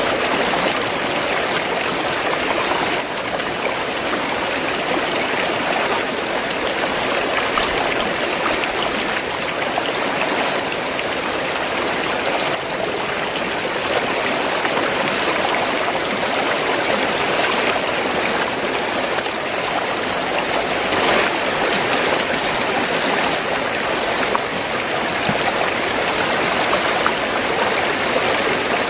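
Fast-flowing stream, water rushing and gurgling steadily over rocks.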